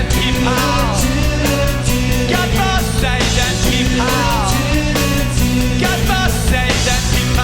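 Rock band playing live in an instrumental stretch: drums and cymbals keep a steady beat under a bass line, with a lead guitar line sliding between notes.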